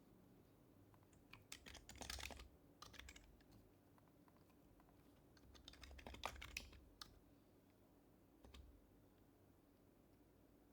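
Soft typing on an HHKB Professional Hybrid Type-S keyboard with its silenced Topre keys: two short bursts of keystrokes and a lone keystroke near the end.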